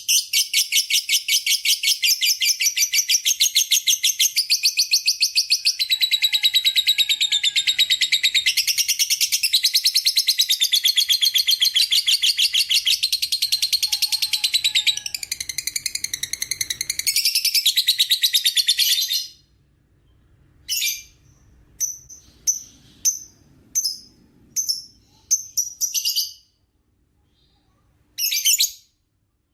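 Lovebird 'ngekek': a long, very fast, unbroken chattering trill, high-pitched, running for about nineteen seconds, then short separate chirps with gaps between them.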